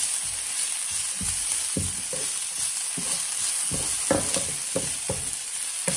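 Chopped onion, cumin seeds and grated ginger sizzling in oil in a frying pan, with a steady hiss, while a wooden spoon stirs them, scraping and tapping the pan about a dozen times.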